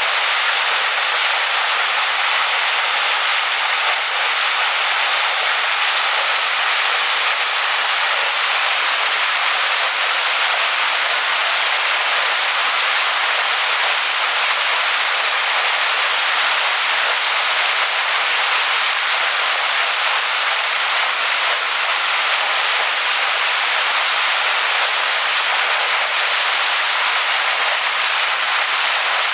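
Waterfall splashing onto rocks: a steady, dense hiss of falling water, bright and high with almost no low rumble.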